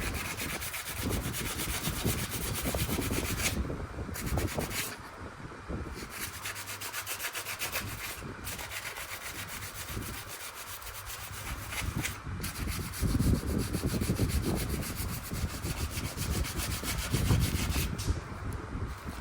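A piece of wood being sanded: a continuous scratchy rubbing of abrasive on wood, louder in stretches past the middle and near the end.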